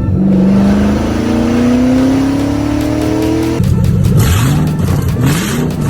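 Ford Mustang Shelby GT500 V8 revving, loud: the pitch climbs steadily for about three and a half seconds, then turns rougher, with the revs swinging up and down and two brief hissy bursts.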